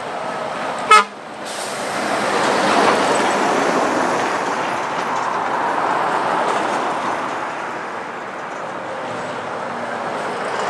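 A vehicle horn gives one short, loud toot about a second in, followed by the steady noise of passing traffic that swells and fades.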